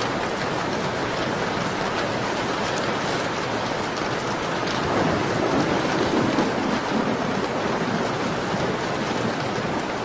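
Steady rain with faint scattered drip ticks, swelling a little louder for a couple of seconds midway.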